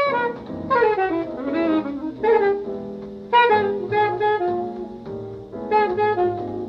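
Instrumental jazz: a saxophone plays a flowing melody in phrases with bent notes, over a bass line.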